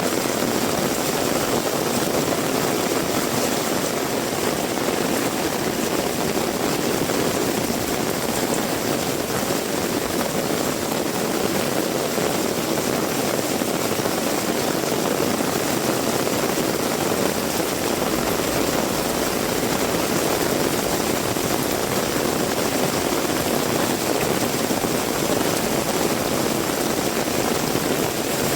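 Heavy rain pouring down steadily, a dense, even wash of sound with no let-up.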